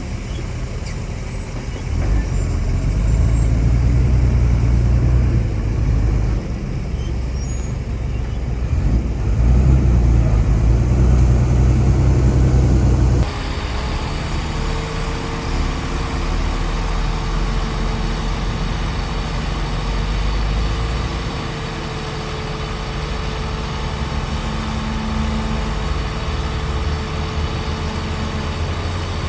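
Heavy diesel earthmoving machinery running: deep engine rumble, louder and rougher in the first half, changing abruptly about halfway through to a steadier engine note with a held whine.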